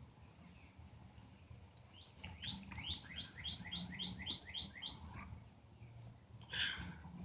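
A bird singing a quick run of about ten short rising chirps, about four a second, a few seconds in. A short breathy hiss follows near the end.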